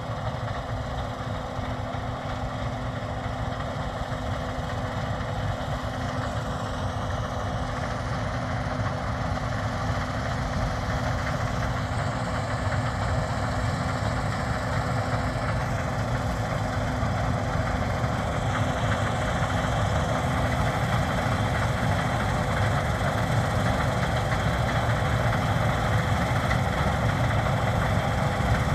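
Case IH 7150 combine running while harvesting wheat: a continuous engine and machinery drone with a steady hum, growing gradually louder.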